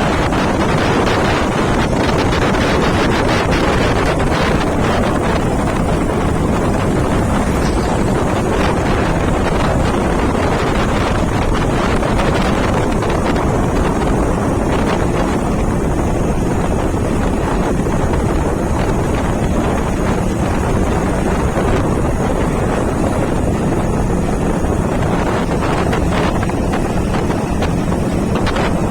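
Steady, loud rush of wind buffeting the microphone on a moving motorcycle, with the bike's engine hum running underneath.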